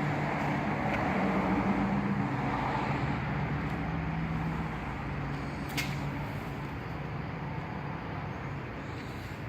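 A motor vehicle's engine hum over steady road noise, fading away over the first five seconds, with a single sharp click a little before the six-second mark.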